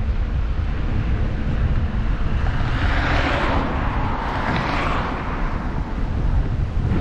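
Wind buffeting the microphone of a moving bicycle, with a steady low rumble. About two and a half seconds in, the tyre hiss of a passing vehicle swells, peaks twice and fades away.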